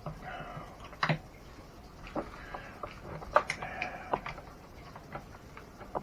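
Hand tools working on the plastic and metal parts of an RC truck being taken apart: irregular clicks and knocks, with a few short squeaky scrapes.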